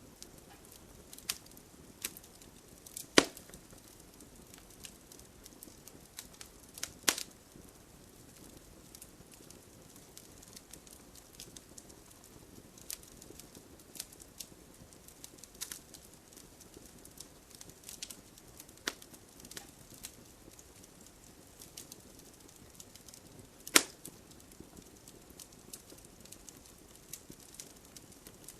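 Wood fire crackling: scattered sharp pops and snaps over a soft steady hiss, with three louder pops about 3, 7 and 24 seconds in.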